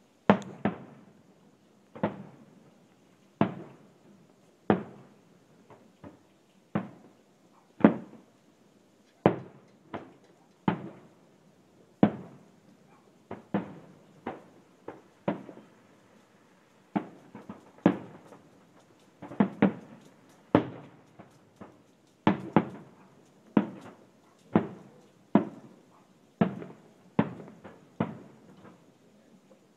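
Fireworks going off in a steady run of single dull bangs, about one a second, each with a short echoing tail.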